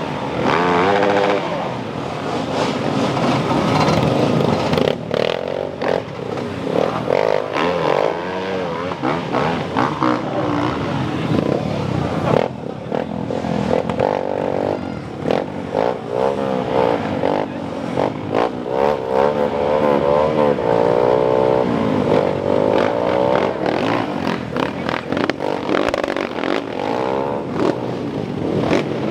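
Motocross bike engines revving hard, their pitch rising and falling again and again, with frequent sharp clicks and clatter.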